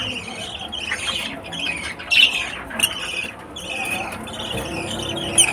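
African lovebirds chattering and squawking: a continuous run of rapid, high calls with a few sharper, louder squawks.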